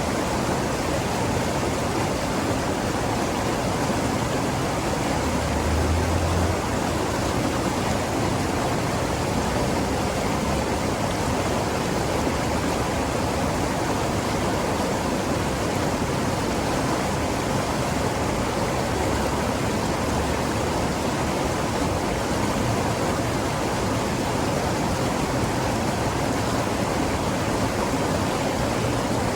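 River water rushing steadily: an even, unbroken noise with no pauses or changes.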